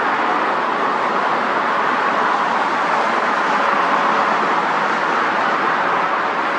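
Steady, even roar of distant engines that neither swells nor fades, with a faint steady hum under it.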